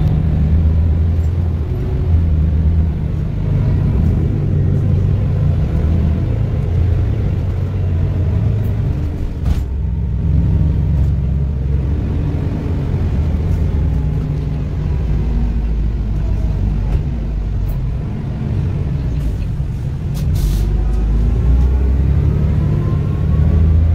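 Public transport vehicle running, a loud, steady low rumble with a few short clicks, and a whine rising in pitch near the end.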